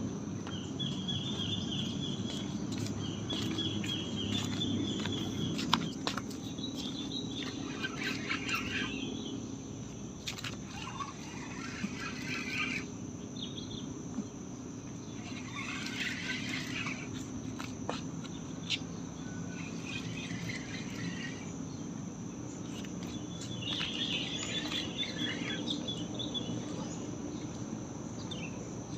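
Night insects trilling in a steady high drone, with bursts of chirping calls, likely birds, coming and going every few seconds over a low background rumble. A few sharp clicks stand out, the loudest about six seconds in.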